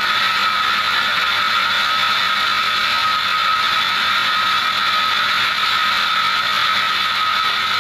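Large band sawmill running steadily, its blade sawing through a teak log, with a steady high whine over a continuous rushing noise.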